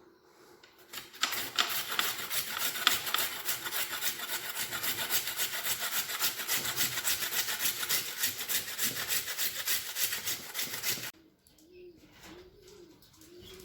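Fast, even rasping scrape stroke after stroke, like something being rubbed or grated hard, that cuts off suddenly about eleven seconds in. Then a dove coos three times, quietly.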